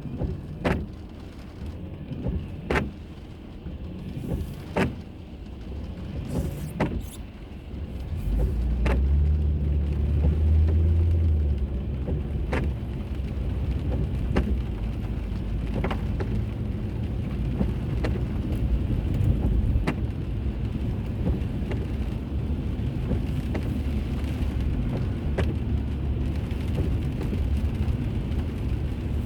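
Car interior sound: low engine and road rumble that swells as the car picks up speed about eight seconds in. A sharp click repeats about once a second.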